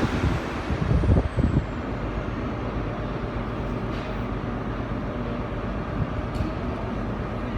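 Diesel train engines running with a steady low rumble, louder and gustier for the first couple of seconds and then even, with a faint high whine gliding down near the start.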